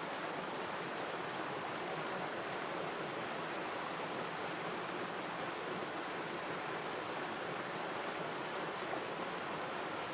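River water flowing in a steady, even rush, with no birds or other sounds over it.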